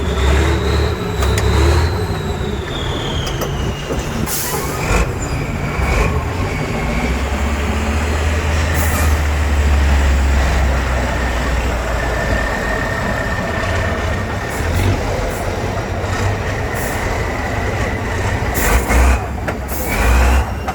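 Heavy off-road trial truck's diesel engine running hard under load, with sharp knocks and clanks now and then, the loudest near the end.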